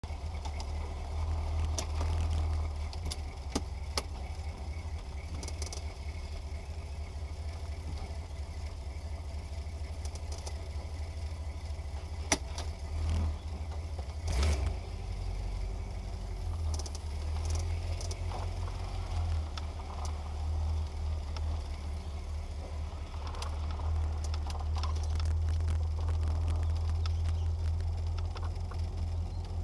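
A car engine idling with a steady low rumble, heard from inside the cabin, with a few sharp clicks and rattles. Near the end the car is moving off.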